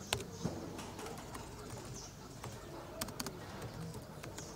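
Bird calls over background ambience, with a few sharp clicks near the start and a quick cluster of clicks about three seconds in.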